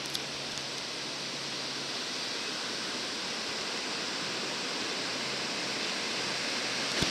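Ocean surf washing on the beach as a steady, even hiss of water.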